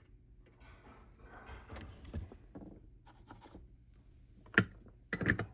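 Scraping and rustling of hand work on a tube radio chassis. About four and a half seconds in comes one sharp click, the loudest sound, followed by a short clatter near the end as the first replacement capacitor is finished off.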